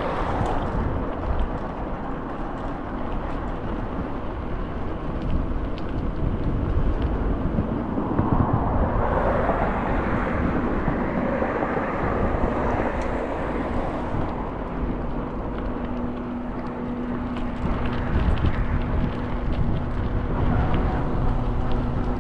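Ride noise inside a moving city bus: a steady engine and road rumble that swells for a few seconds midway. About fifteen seconds in, a steady low hum joins it.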